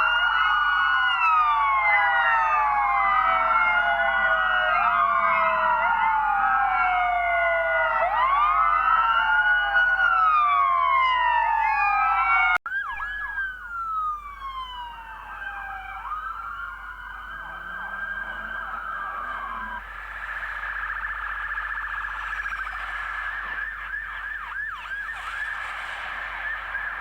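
Several police car sirens wailing together, their rising and falling tones overlapping out of step, as in a convoy. The sound breaks off abruptly about halfway through; after that fewer, quieter sirens carry on, and near the end one switches to a fast yelp.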